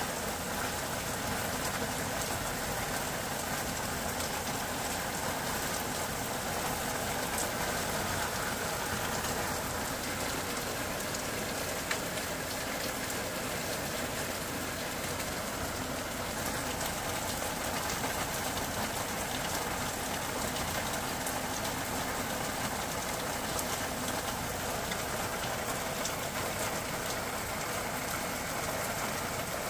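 Curry masala sizzling and bubbling steadily in a pan on a gas hob, with one small click about twelve seconds in.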